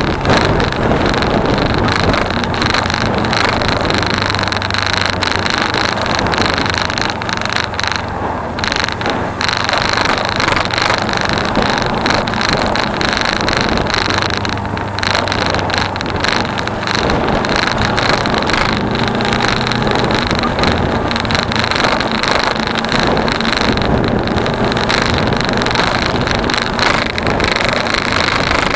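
Suzuki V-Strom 250 parallel-twin engine running under way, its note stepping up and down a few times, with heavy wind rush on the action camera's microphone and a steady high-pitched tone.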